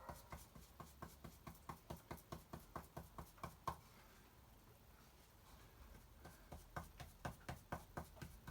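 Small paintbrush dabbing paint through a stencil onto wood: faint, quick taps about four a second, pausing for a couple of seconds midway and then starting again.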